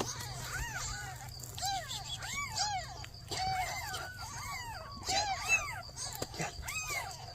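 Newborn kittens mewing over and over: short, high, rising-and-falling cries from several kittens at once, two or three a second.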